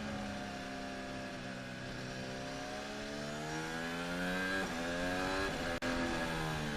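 Onboard sound of a 2021 Red Bull Formula 1 car's Honda 1.6-litre turbocharged V6 hybrid engine. The engine note falls steadily as the car slows, then climbs again through the gears, with quick upshifts about four and a half and six seconds in.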